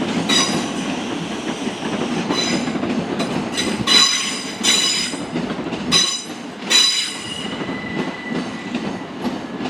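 A Class 375 Electrostar electric multiple unit running through the platform: a steady rumble of wheels on track, with several short high-pitched wheel squeals.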